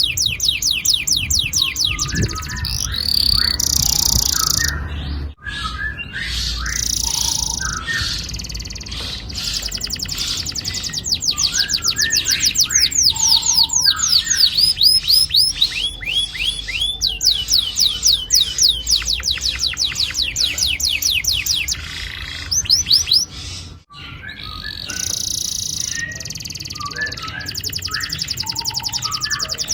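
Domestic canary singing long rolling trills: fast runs of repeated high, falling notes with short chirps between them. The song cuts out abruptly twice.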